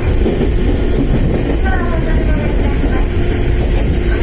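Sangi Railway electric train running, heard from inside the car: a steady low rumble from the wheels and running gear with a constant hum.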